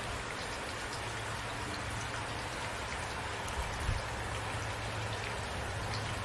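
Steady rain falling, an even hiss with single drops ticking through it and a low steady hum underneath. There is a short low thump about four seconds in.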